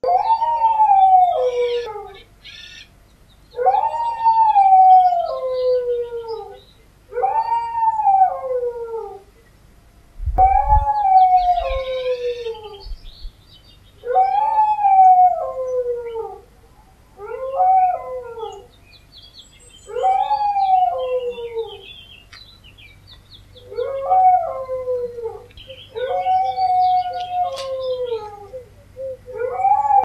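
German Shepherd howling: about ten long howls spaced roughly three seconds apart, each rising and then sliding down in pitch. A brief low thump about ten seconds in.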